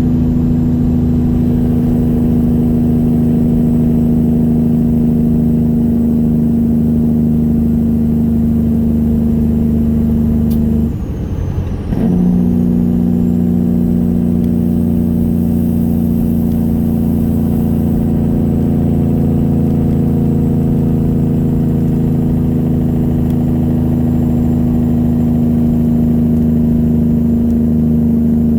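1999 Peterbilt 379's straight-piped Detroit 60 Series diesel running at a steady speed. About eleven seconds in the engine note drops out for about a second during a gear change, then picks up again, and a faint high whine dips and climbs back with it.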